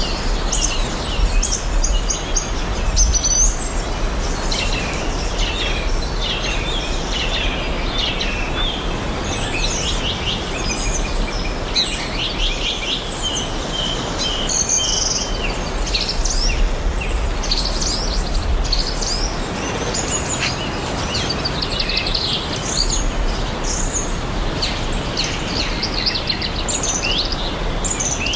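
Several songbirds chirping and singing in overlapping short calls and quick trills, over a steady rushing background with a low rumble.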